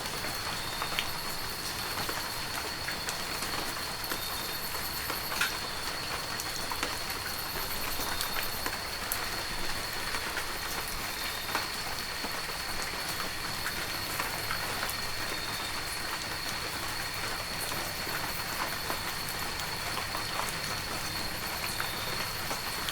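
Heavy rain falling steadily, with many sharp individual drop hits. A thin, steady high-pitched tone runs underneath.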